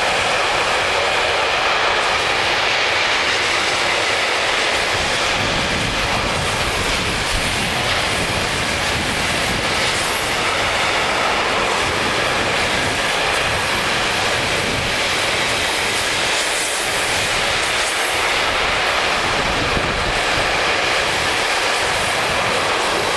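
Container freight train rolling past at close range: a steady, loud noise of steel wheels on rail from the passing container wagons.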